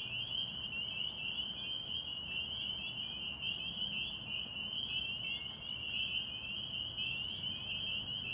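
A dense chorus of spring peepers (Pseudacris crucifer), many males calling at once, their short, high, upslurred peeps overlapping into a continuous shrill trill.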